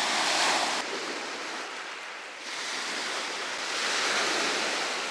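Sea waves breaking and washing onto a beach, in two surges about four seconds apart.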